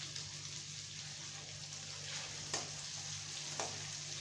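Potato chunks sizzling as they fry in hot oil in a wok, stirred with a spatula that knocks against the pan twice past the middle.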